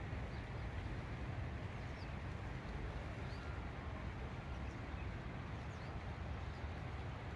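Steady low rumble with faint short bird chirps every second or so.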